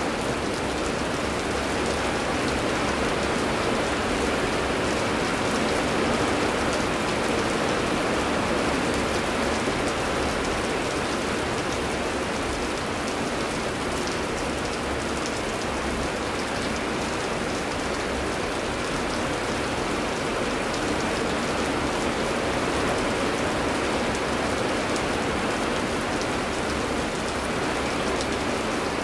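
Steady heavy rain pouring down, an even rushing hiss with fine drop ticks and no thunder.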